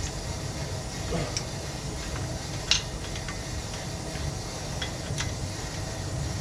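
A few light metal clicks and taps from a wrench prying a stuck pinion gear off a brushless motor's shaft, the loudest about two and three-quarter seconds in, over a steady low background rumble.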